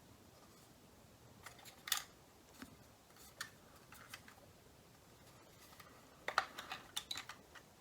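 Faint scattered clicks and taps of plastic as the W204's dashboard light switch is pushed onto its mount and turned, with a quick run of clicks near the end.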